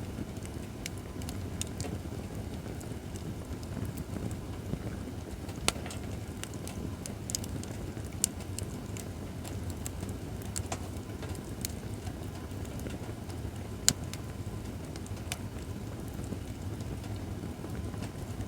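Acacia firewood burning in a fire pit: scattered sharp crackles and pops over a steady low rush of flames, with the loudest pop about fourteen seconds in.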